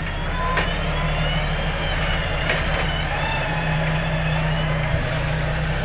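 Off-road truck's engine running steadily while a vehicle-mounted winch reels in its cable under load, a thin wavering whine over the engine hum.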